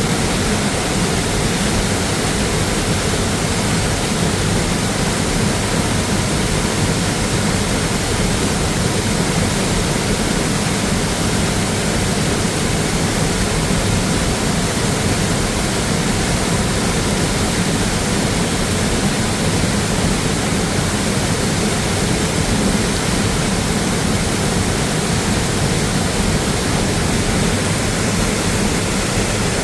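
Mountain waterfall: a loud, steady rush of falling water with no break.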